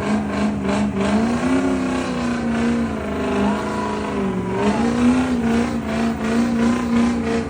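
Truck engine held at high revs, its pitch dipping briefly twice.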